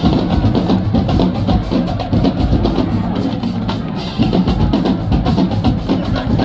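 Marching band playing, with bass drums and snare drums beating a fast, driving rhythm under the brass.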